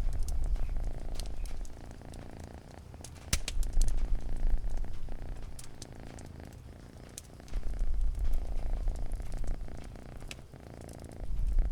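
Cat purring, a low rumble that swells and fades about every four seconds, with scattered sharp crackles from a wood fire.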